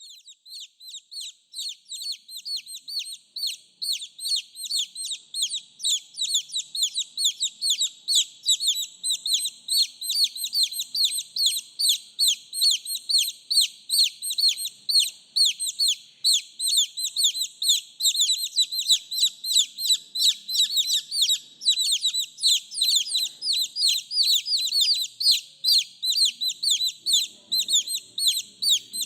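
Baby chicks peeping without a break: a dense stream of high, short, downward-sliding peeps, several a second. These are chicks calling for the mother hen.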